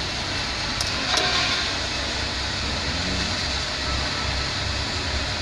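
Isuzu 8PC1 diesel engine running steadily with a low pulsing rumble, and two light metallic clicks about a second in.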